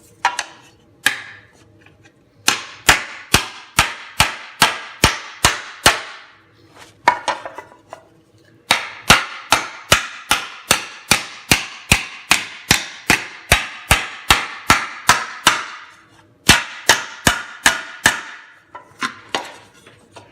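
Hand hammer striking sheet metal laid over a small dish in a Delrin plastic shrinking stump, shaping it into a tight curve. The blows come steadily at about two or three a second in three runs, each with a short metallic ring, with brief pauses between runs.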